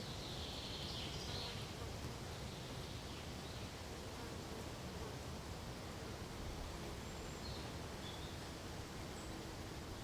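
Forest ambience with a steady, soft rustling hiss. A brief high buzz starts about a quarter second in and lasts about a second, and a few faint, short high chirps come near the end.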